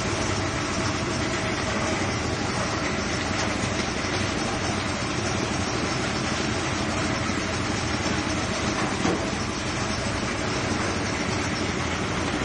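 Coconut-husk fibre separating machine running, a steady dense mechanical noise with a faint hum that holds at an even level throughout.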